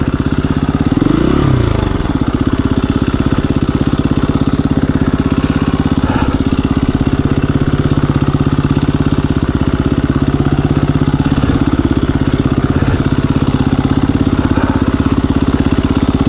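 KTM 350 EXC-F dirt bike's single-cylinder four-stroke engine idling steadily, with one short blip of the throttle about a second in.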